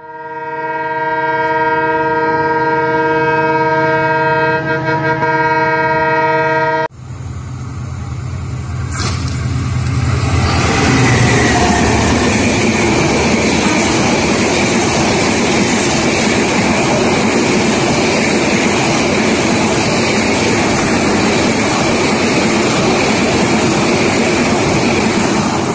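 A train horn sounds one long steady note for about seven seconds and cuts off abruptly. A locomotive's low rumble then comes in, and a broad-gauge passenger train's coaches rush past at speed, a loud steady rush of wheels on rails.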